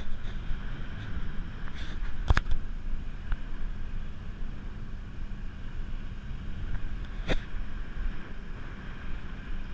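Boat engine running with a steady low rumble, with two sharp knocks about two and seven seconds in.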